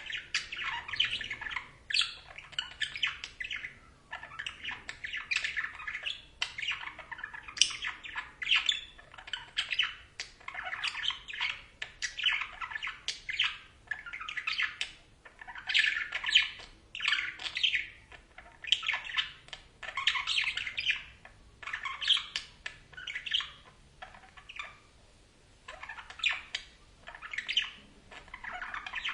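Pet budgerigars chirping in a near-continuous run of short calls, with a brief lull near the end.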